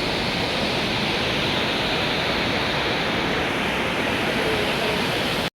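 Manthoka waterfall: falling water in a steady, even rush that cuts off suddenly near the end.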